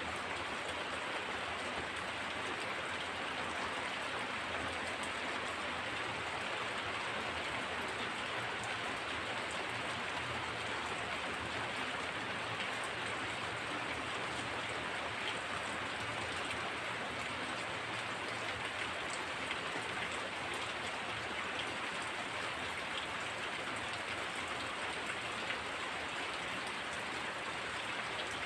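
Heavy rain falling steadily, a dense even hiss of drops striking surfaces, with small scattered drop ticks.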